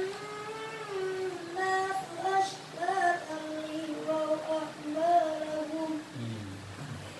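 A young child chanting Quranic recitation in the melodic tilawah style, holding long notes and ornamenting them with turns in pitch, phrase by phrase.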